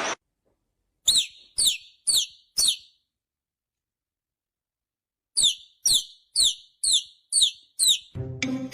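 A bird chirping: short, sharp chirps that fall quickly in pitch, four in quick succession, then six more after a pause of about two and a half seconds.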